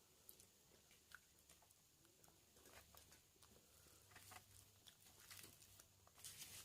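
Faint close-up eating sounds: soft wet chewing with scattered small clicks and crackles, a denser burst of them near the end.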